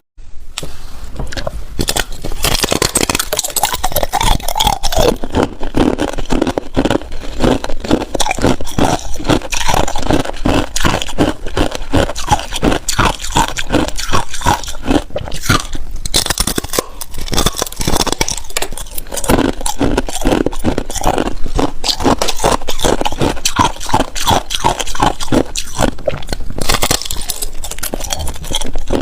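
Close-miked crunching and chewing of hard ice: a rapid, continuous series of sharp cracks and crunches as the ice is bitten and ground between the teeth.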